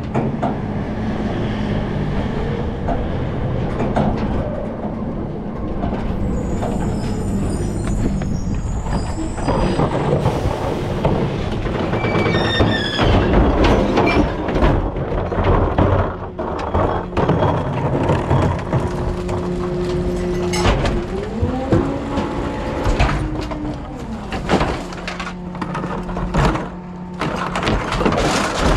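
Rear-loader garbage truck running, its engine humming steadily under repeated clanks and knocks. There is a brief high squeal about halfway, and a whine that rises and falls about two-thirds of the way through.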